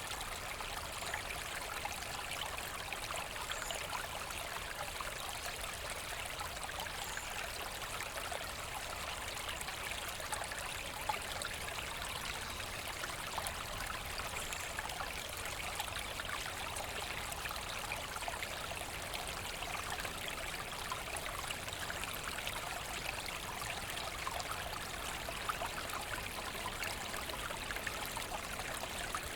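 Forest brook flowing: a steady, even rush and trickle of water.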